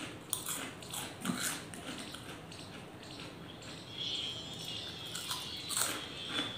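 Close-up chewing and lip smacking of fried chips and fries: soft, wet mouth sounds with scattered clicks. The fries are not crunchy.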